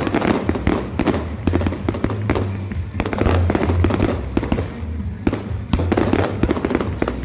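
Rapid, irregular bangs and crackles, like fireworks, over a steady low rumble, with music underneath.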